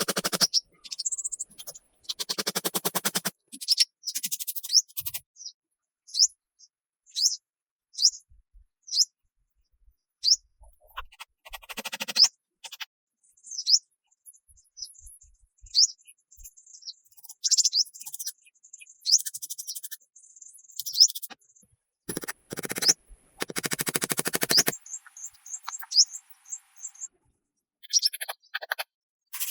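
A small bird repeating short, high chirps about once a second, broken by several loud, scratchy rasping bursts lasting a second or two each, the longest about three quarters of the way through.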